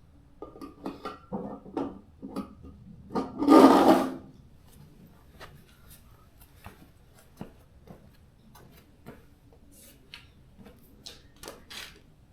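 Hand-work sounds from applying a vinyl stripe graphic: a string of short rubs and knocks, one louder rustling burst about three and a half seconds in, then scattered light clicks and brief rustles.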